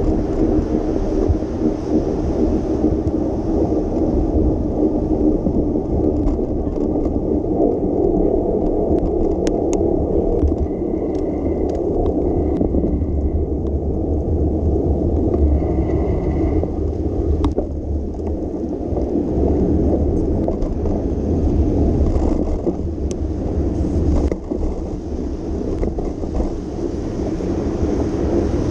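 Steady rolling rumble of a bicycle ride on wet city pavement, with tyre noise and wind on the microphone. A few faint ticks and two brief high tones come around the middle.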